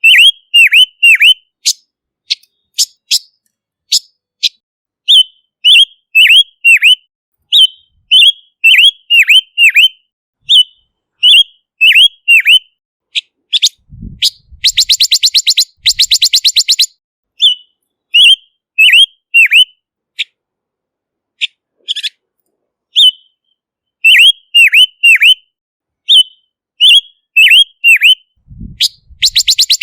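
Silver-eared mesia singing: phrases of four or five quick, downslurred whistled notes, repeated every second or two. About halfway through there is a fast, dry, rattling trill lasting about two seconds, and another begins at the very end. A soft low thump comes just before each rattle.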